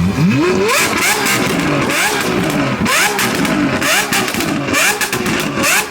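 Car engine revving and accelerating, its pitch climbing again and again, about once a second.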